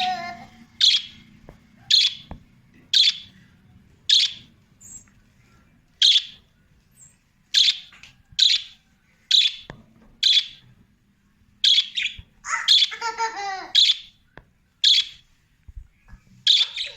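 Budgerigars calling: short, sharp chirps about once a second, with a longer warbling chatter about two thirds of the way through.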